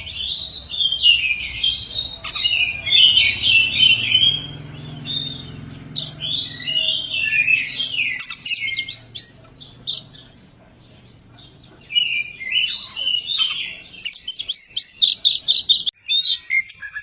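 Oriental magpie-robin (kacer) singing a varied song of whistled and chattering phrases. It pauses for about two seconds midway, then breaks into a fast run of repeated short notes near the end.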